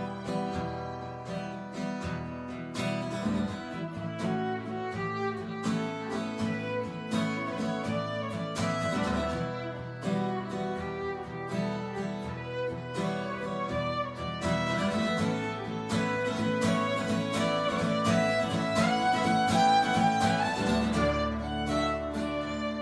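Live folk music: a fiddle playing a melody over strummed acoustic guitar, with a rising run on the fiddle near the end.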